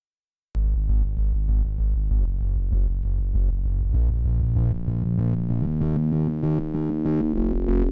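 Electronic synthesizer music, starting abruptly about half a second in, with heavy bass under a quick, even pulsing rhythm. The bass drops out for a second or two after the middle, then returns.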